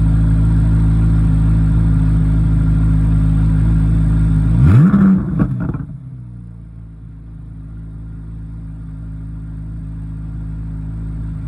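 C8 Corvette Z06's flat-plane-crank V8 running at a steady idle, blipped once in a quick rev about halfway through with a few sharp pops as the revs fall. After that the engine sound is much quieter and slowly grows louder.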